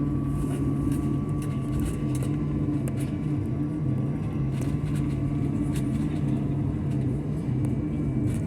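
Steady drone of an airliner's jet engines heard inside the passenger cabin, a low hum with a faint higher tone and a few light ticks.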